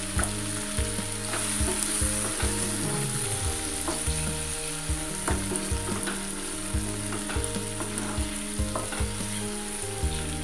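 Raw mung dal sizzling as it fries in hot mustard oil in a nonstick pan, stirred with a wooden spatula whose strokes scrape and tap against the pan many times.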